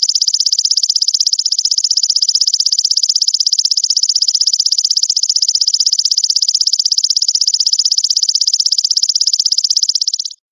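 Grasshopper calling: a loud, continuous high-pitched buzz of very rapid, even pulses. It is a looped recording that cuts out for a moment right at the end.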